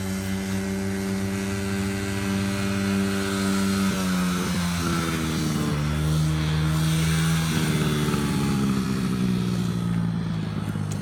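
Small dirt bike engine running steadily, its pitch dropping and wavering a few times from about four seconds in, then holding lower.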